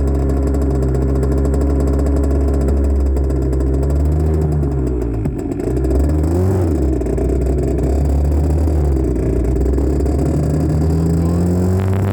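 1984 Honda CR80R's 80cc two-stroke single-cylinder engine being ridden. It holds a steady pitch, drops and picks back up twice in the middle as the throttle comes off and on, then revs up again near the end, heard through a phone mounted on the bike.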